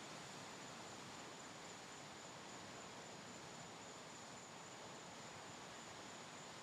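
Faint, steady wash of ocean surf, with no separate waves standing out, and a thin, constant high-pitched tone over it.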